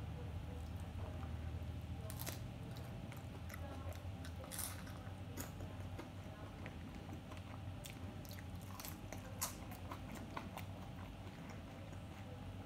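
Close-up eating sounds of tortilla-chip nachos being bitten and chewed, with sharp, irregular crunches scattered throughout over a low steady hum.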